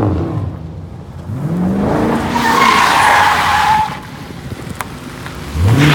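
Hemi V8 car doing donuts: the engine revs up about a second in, then the tires squeal loudly for nearly two seconds before cutting off, and the engine revs again near the end.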